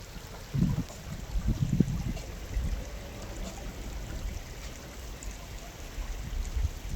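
Shallow stream water running over its bed, with irregular low rumbling bumps on the microphone, strongest in the first two seconds.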